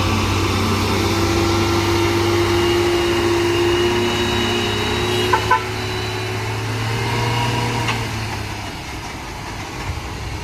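A heavy truck's engine labouring steadily up a steep climb, its pitch creeping slightly higher. Two sharp knocks come about five seconds in, and the engine sound fades away after about eight seconds.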